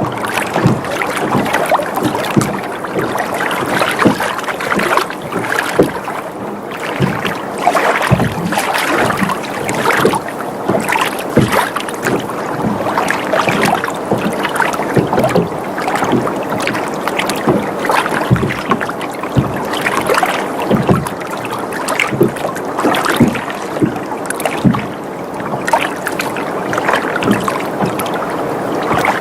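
Water sloshing and lapping against a boat's hull: a steady wash of small, uneven splashes that swell and ease.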